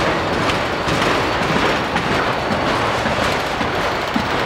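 Empty autorack freight cars rolling past: the steady rumble and clatter of their steel wheels on the rails.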